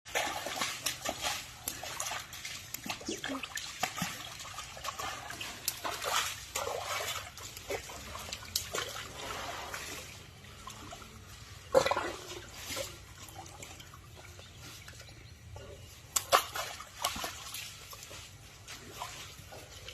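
Water splashing and trickling in irregular bursts, with a sharp, louder splash about twelve seconds in and another near the end.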